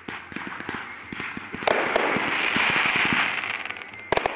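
Fireworks going off: a run of small pops, then from about halfway a dense crackling hiss broken by a few sharp reports, and a quick cluster of sharp bangs near the end.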